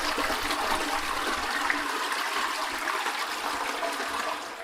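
Toilet flushing: a steady rush of water that begins to fade near the end.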